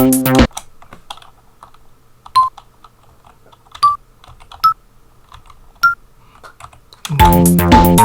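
Tracker pattern playback of an Amiga-style sample loop stops about half a second in. Computer keyboard typing follows as notes are entered, with four short single pitched notes sounding along the way. The loop starts playing again about seven seconds in.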